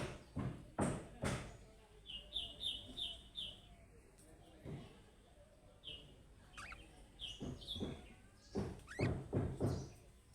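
Budgerigar chirping: a quick run of five short high chirps, then scattered chirps and a falling call. Short sharp knocks, about two or three a second, come at the start and again near the end.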